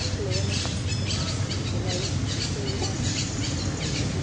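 Birds chirping in the forest: short high chirps repeating several times a second, over a steady low hum.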